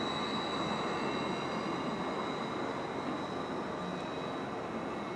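Greater Anglia Class 755 Stadler FLIRT train running away along curved track. There is a steady rumble of wheels on rail with a thin, high steady whine over it, fading slowly as the train recedes.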